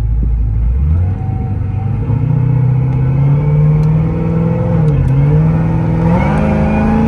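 Supercharged 416 cubic inch V8 in a Cadillac CTS-V running, with the supercharger whine riding over the engine note. The pitch climbs about a second in, holds, dips briefly about five seconds in, then climbs again near the end as the whine rises.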